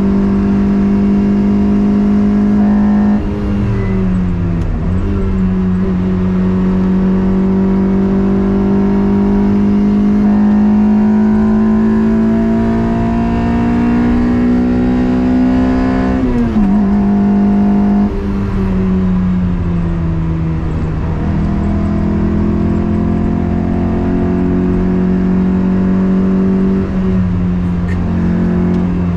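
Toyota MR2's swapped-in 2ZZ 1.8-litre four-cylinder engine running hard under load, its note climbing slowly and then dropping sharply and recovering a few times: a few seconds in, about halfway through, and near the end.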